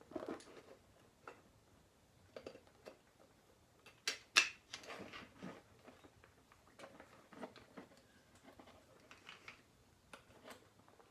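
Scattered light clicks, taps and knocks of metal and plastic motorcycle handlebar parts and controls being handled and fitted onto new bars, with two sharper clicks close together about four seconds in.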